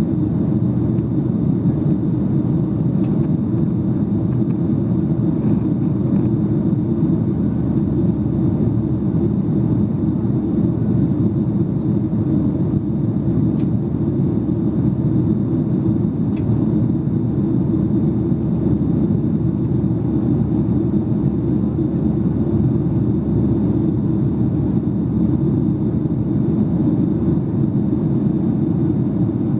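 Steady low rumble of cabin noise inside a Boeing 737-800, made by its CFM56 jet engines and the airflow over the fuselage.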